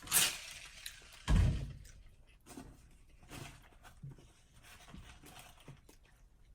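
Eating and handling noises during a taste test of a fried chicken sandwich. There is a brief rustle at the start and a dull thump about a second and a half in, then faint scattered small sounds of chewing and handling.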